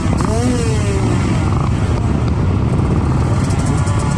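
Kawasaki KX450 motocross bike's four-stroke single-cylinder engine running under throttle, its pitch rising and falling over and over.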